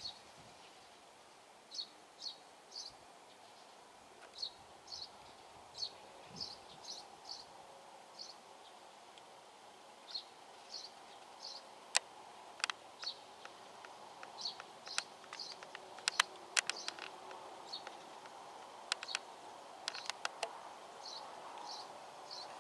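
Small birds chirping, short high notes repeated every half second or so, over a steady low outdoor hiss. Several sharp clicks come in the second half.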